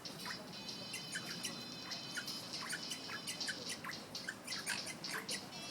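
African grey parrot making rapid short, sharp chirps, several a second, over a steady high whistle that stops about halfway through.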